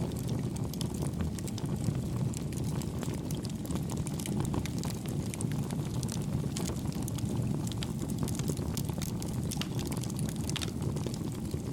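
Campfire burning: a steady low rumble of flames with frequent small, soft crackles and pops scattered through it.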